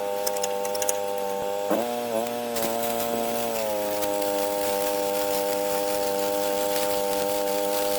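Stick welding with 6010 rod: the arc crackles and hisses steadily with sharp spatter ticks. Under it runs the steady drone of an engine-driven welding machine, whose pitch dips briefly twice around two seconds in as the load changes.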